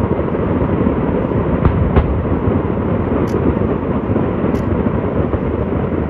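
Fireworks barrage: many shells and effects going off together in a continuous dense rumble and crackle, with a couple of sharper bangs about two seconds in.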